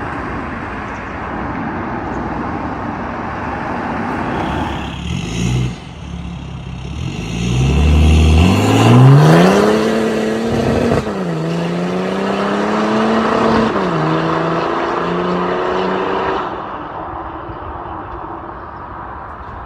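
BMW N57 3.0-litre straight-six diesel through a catless downpipe and straight-pipe exhaust, accelerating hard: the revs climb steeply, fall sharply at two quick upshifts and climb again after each, then the sound fades.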